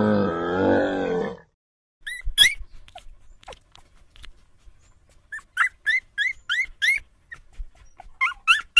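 A low, drawn-out animal call for the first second and a half, then a puppy whimpering: a run of short, high, rising cries, two or three a second.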